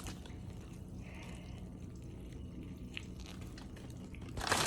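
Quiet chewing of a first bite of a Philly cheesesteak sandwich, with faint mouth sounds. Near the end comes a short burst of crinkling.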